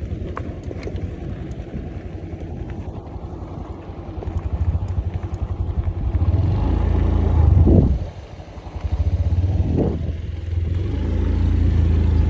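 A small engine running close by with a fast, even firing beat, its revs dropping and picking up again twice in the second half.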